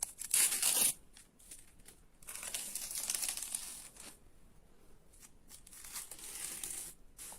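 Irregular bursts of crinkling, rustling noise, the loudest in the first second, with softer ones about two seconds in and again near the end.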